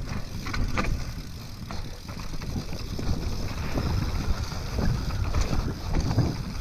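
Trek Remedy full-suspension mountain bike descending a rooty forest trail at speed: a steady rumble of tyres and wind on the helmet-mounted camera's microphone, broken by many quick knocks and rattles as the bike hits roots.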